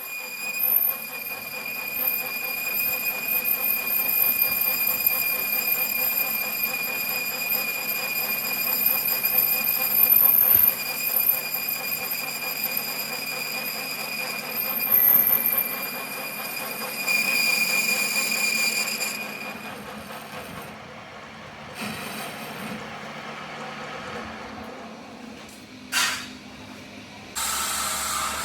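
Metal being cut on a machine tool, giving a steady high-pitched squeal over a running machine. The squeal stops about two-thirds of the way through, leaving quieter machine noise, with a sharp knock near the end.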